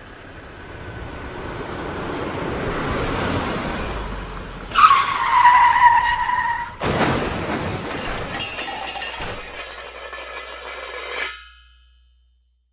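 Car sound effects: engine noise building up, then a loud tire squeal sliding down in pitch about five seconds in, then another burst of car noise that starts suddenly and cuts off about eleven seconds in.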